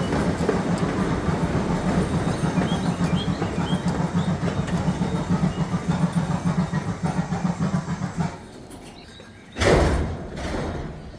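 Park excursion train running on its track, a steady rumble of wheels and motor with a low hum, which drops away about eight seconds in. A loud thump comes near the end.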